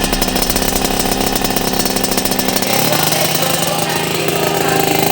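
Suzuki RGR 150 single-cylinder two-stroke engine running through a YY Pang expansion-chamber exhaust, held at steady revs. It picks up to a slightly higher steady speed a little under three seconds in.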